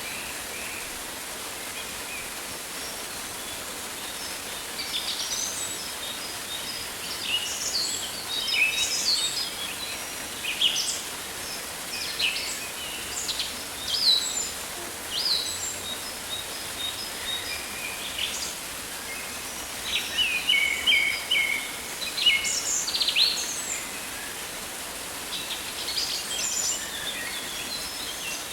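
Rainforest ambience: many birds calling and chirping in short, sharp notes, in bursts, over a steady background hiss.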